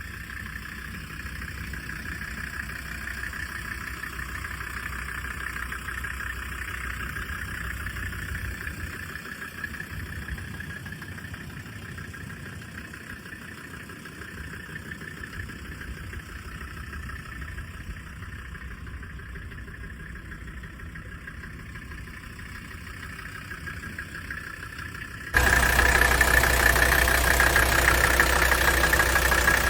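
1983 Mercedes-Benz 300CD Turbo Diesel's five-cylinder turbodiesel idling steadily. About 25 seconds in, the sound becomes suddenly louder, with a fuller low rumble.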